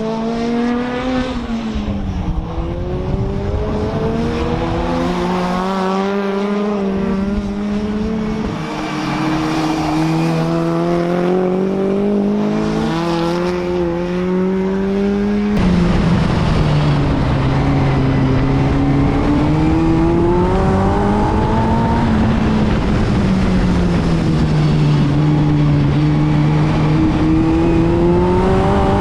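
BriSCA F2 stock car engine running hard around a track, its pitch climbing and falling repeatedly as it accelerates and backs off. The sound changes abruptly about halfway through.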